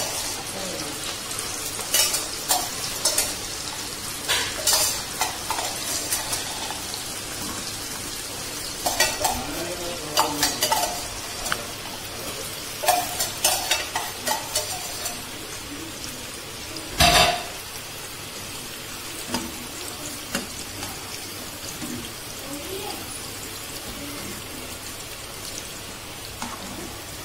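Soaked green gram (mung beans) frying in hot sunflower oil with a steady sizzle. A stirring utensil clicks and scrapes against the pan now and then, with one louder knock past the middle.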